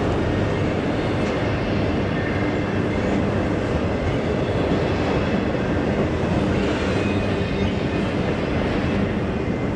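Freight cars of a passing CSX train rolling by, a steady rumble of steel wheels on the rails.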